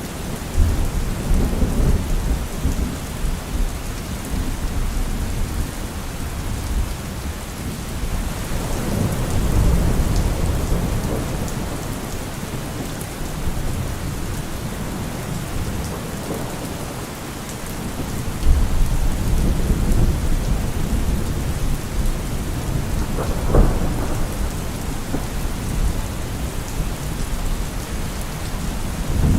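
Steady rain falling, with thunder rumbling low several times and one sharper crack of thunder about two-thirds of the way through.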